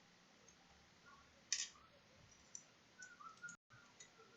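Near silence with a few faint, short clicks, the clearest about a second and a half in and a small cluster near the end, broken by a brief moment of dead silence.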